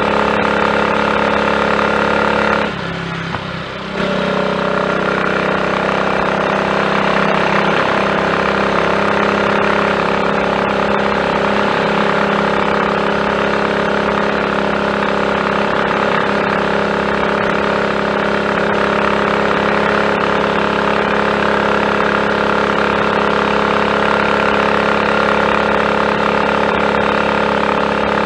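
Triumph Tiger Cub's single-cylinder four-stroke engine running steadily on the road. About three seconds in it drops away for a second, then pulls steadily again. It runs without misfiring on a richness-corrected Zenith carburettor with a new slide, needle, needle jet and main jet.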